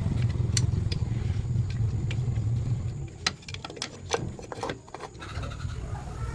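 Car engine idling with a steady low rumble. About three seconds in the rumble drops back for a couple of seconds while a run of clicks and clatter sounds, then it picks up again.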